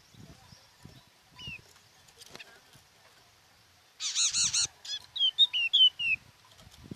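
Bird calling: a few faint short falling notes, then about four seconds in a loud, harsh, rapid series of notes, followed by five or six quick clear whistled notes, each falling in pitch.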